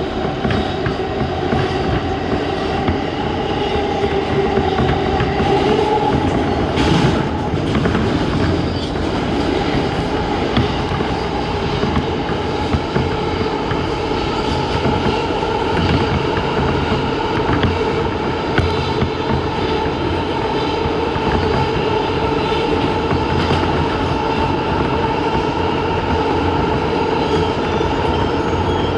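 New York City subway A express train running at speed: a continuous rumble of wheels on rail with a steady whine over it, and one sharp crack about seven seconds in.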